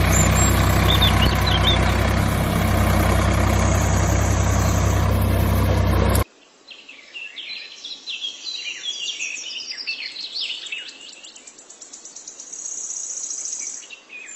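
A loud steady drone with a low hum cuts off suddenly about six seconds in; after it, birds chirp and twitter.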